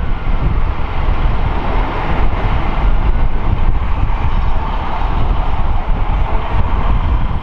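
Loud, steady rumble of a train running close by, with a noisy rail and wheel roar and no distinct engine note.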